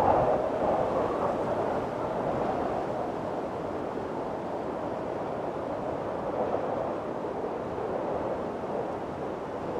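Strong wind blowing in a windstorm: a gust easing off over the first couple of seconds, then a steady rushing that swells slightly again near the end.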